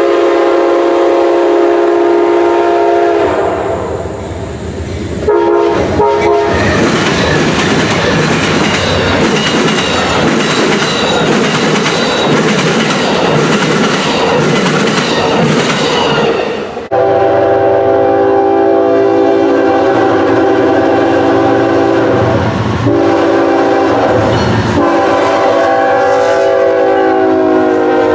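Locomotive air horn sounding a multi-note chord in long blasts, with a passing train's wheels and rail noise filling the middle section. The horn stops briefly twice near the end.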